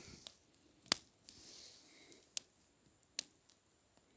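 Small campfire of split deadwood kindling catching, with three sharp crackling pops a second or so apart and a faint hiss of the flames.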